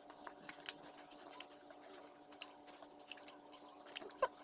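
Faint close-up chewing of deep-fried proben: scattered soft crunches and mouth clicks, with a few sharper ones near the end.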